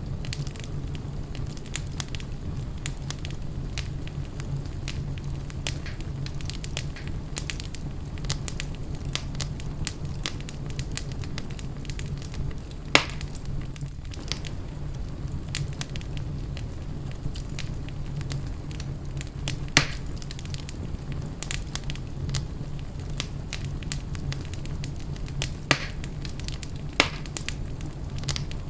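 Wood fire burning in a fireplace: a steady low rumble of flames with constant small crackles and a few sharper pops, the loudest about thirteen and twenty seconds in and twice near the end.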